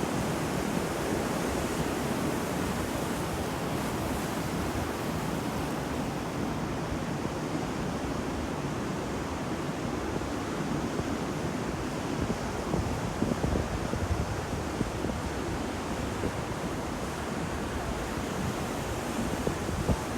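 Ocean surf: a steady wash of breaking waves, with a few slightly louder surges in the second half.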